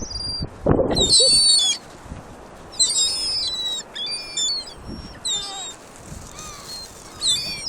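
Several gulls calling over and over in short bursts of high, squealing cries, with a low thump on the microphone about a second in.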